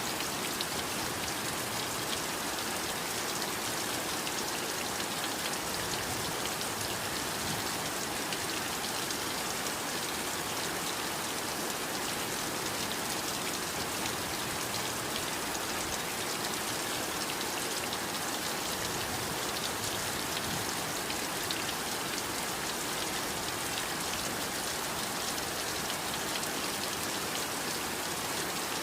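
Steady heavy rainfall, an even hiss of rain with fine drop patter on a surface, unchanging throughout.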